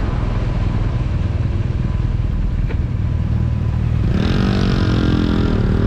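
BMW R nineT's air-and-oil-cooled boxer twin running under way, a dense low rumble. About four seconds in its engine note comes through clearly, dips briefly near the end and then climbs again.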